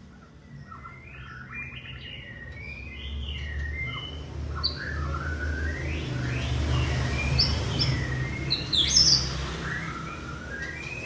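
White-rumped shama (murai batu) singing a varied, fast run of whistled and chattering phrases that grows louder toward the end, over a low steady hum.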